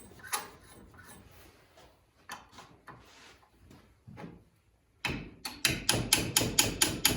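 Sharp metal-on-metal tapping on a dirt bike rear shock's spring spanner nut to knock it loose, a few faint knocks at first, then a rapid run of loud strikes, about four or five a second, from about halfway in.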